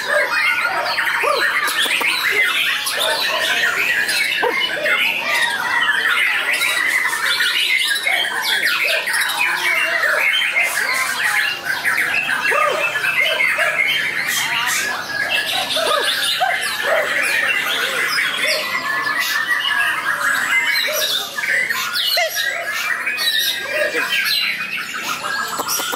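White-rumped shama (murai batu) singing without a break: a dense stream of short, varied, fast-changing notes.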